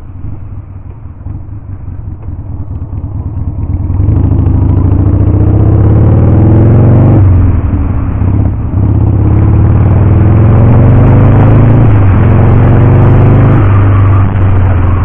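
Harley-Davidson Sportster 883's V-twin engine, running low for the first few seconds, then opening up and accelerating, its pitch rising in each gear with breaks for gear changes about seven, twelve and fourteen seconds in.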